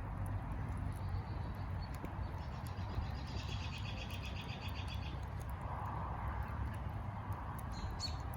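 Wood fire crackling with small scattered pops, while birds chirp; one bird gives a rapid trill about three seconds in that lasts about two seconds, and a short high call comes near the end.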